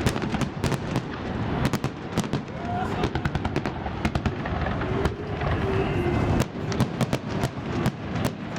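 Fireworks salute going off in quick succession: many sharp cracks and bangs, several a second, over a continuous rumble of further bursts.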